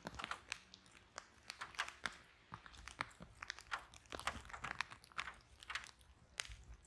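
Wood fire burning in a fireplace, crackling and popping irregularly over a faint low rumble of the flames.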